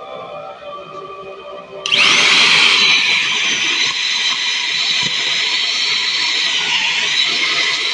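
Deerma handheld stick vacuum switched on about two seconds in: the motor spins up with a short rising whine, then runs at a steady, high-pitched whine.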